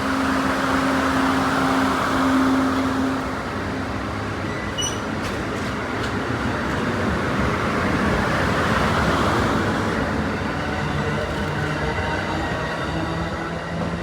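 Amtrak passenger train pulling out of a station close by. A steady hum fades after the first few seconds, then the cars keep rumbling and rolling past.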